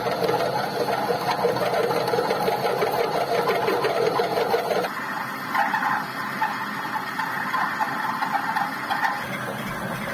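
Manual metal lathe running during internal thread cutting, a steady mechanical whir whose pitch shifts about halfway through.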